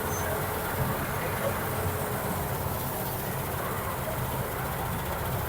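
Combine harvester running steadily while harvesting wheat, a constant low engine rumble with machinery noise over it.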